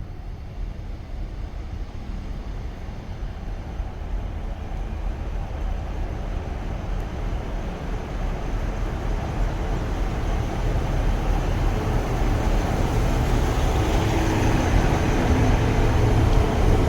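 A train approaching, its low rumble growing steadily louder, with a steady hum joining in over the last few seconds.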